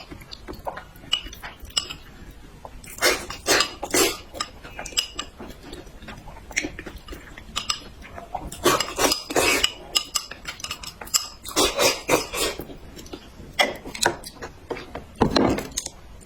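Eating utensils clinking and scraping against bowls and dishes, in clusters of sharp clicks.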